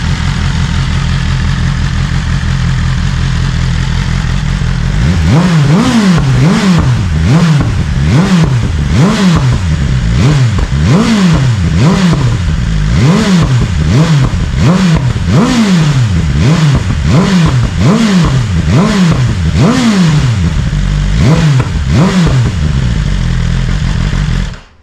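BMW S1000RR inline-four engine through its stock exhaust with the exhaust butterfly valve stuck open: idling for about five seconds, then blipped over and over, about one rev a second, each rev rising and falling sharply. It is pretty loud, with a deeper growl from the open valve. The sound cuts off abruptly near the end.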